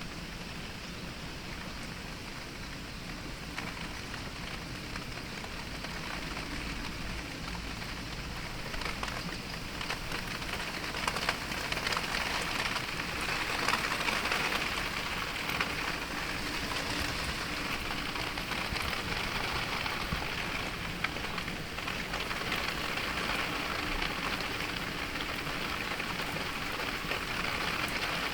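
Heavy rain falling in a storm, a dense patter of drops on surfaces, recorded binaurally at an open window. The downpour swells louder about a third of the way in, peaks, then stays steady.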